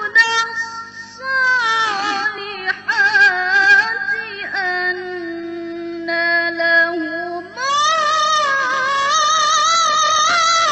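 A young woman's melodic Quran recitation (tilawah), one solo voice holding long ornamented notes with vibrato. A long, lower, even note sits in the middle, then the voice rises to a higher held note with wide vibrato about three quarters of the way through.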